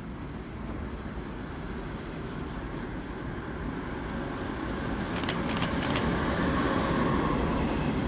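Approaching passenger train: its rumble grows steadily louder, with a few sharp ticks about five seconds in.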